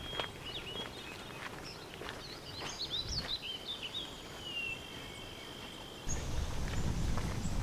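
Birds chirping and singing over quiet outdoor ambience, with a held whistled note near the middle; a little after six seconds a low rumble comes up abruptly.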